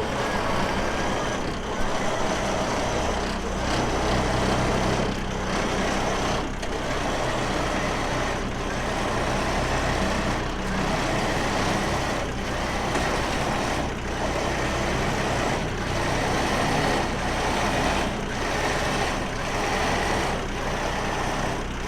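Tow truck engine running steadily while a vehicle is loaded onto its tilt tray, with faint knocks now and then.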